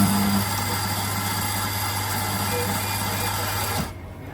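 Victoria Arduino MY75 espresso grinder's motor running and grinding coffee beans: a steady motor hum under a dense grinding hiss, starting abruptly and cutting off near the end. It is a test grind after the grinder has been cleaned and reassembled.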